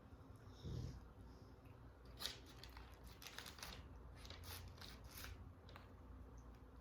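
Faint crisp crunching from someone eating: a cluster of crackles over about three seconds, after a soft thump near the start.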